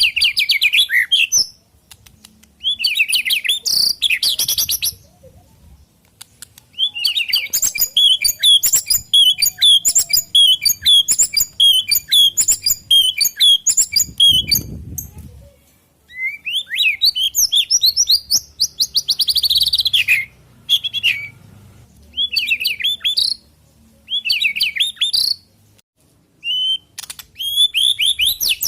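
White-rumped shama singing loud bursts of varied whistled and chattering phrases with short pauses between them, including one long run of evenly repeated notes in the middle.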